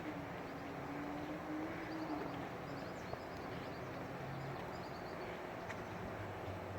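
Steady hum of distant road traffic with a faint engine drone in the first few seconds, and a few faint bird chirps over it.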